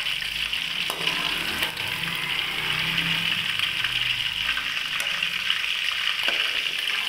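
Chicken pieces sizzling steadily in hot cooking oil as they finish deep-frying, with a few light taps along the way.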